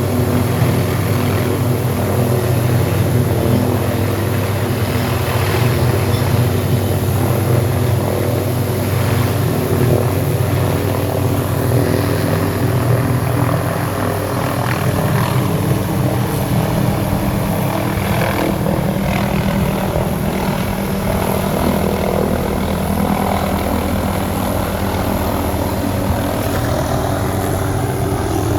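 Helicopter running steadily, its rotor and engine giving a constant, even drone.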